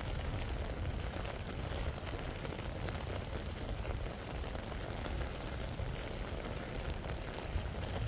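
Steady rain falling and pattering on an open umbrella, an even dense hiss over a low rumble.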